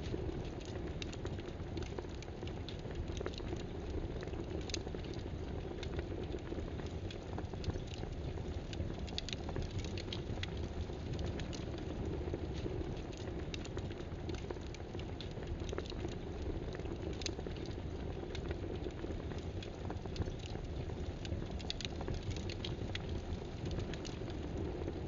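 Scattered, irregular light clicks over a steady rushing background noise, typical of occasional keystrokes on a computer keyboard.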